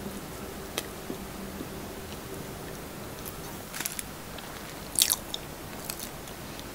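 Close-miked chewing of a steamed siomai dumpling, with a few short wet mouth clicks and smacks, the loudest about five seconds in.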